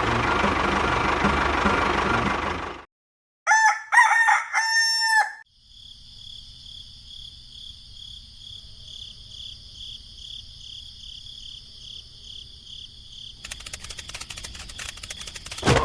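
A loud engine-like rattle cuts off about three seconds in. After a short silence a rooster crows once, loudly. A faint steady hum with a high pulsing whine follows, with rapid clicking near the end.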